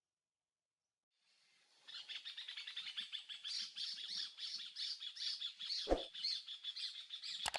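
Many birds chirping rapidly together in a dense, continuous chorus that starts abruptly about two seconds in after silence. A low thump comes about six seconds in and a sharp click near the end.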